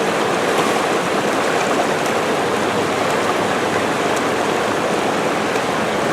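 Rushing river water: a steady, loud wash of fast-flowing current.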